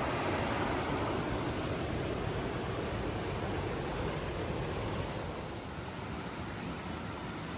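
A creek rushing steadily, easing slightly about five seconds in.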